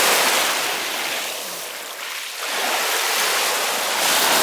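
Small waves of the Gulf of Finland washing up on the shore, a hiss that swells, eases about two seconds in, then swells again.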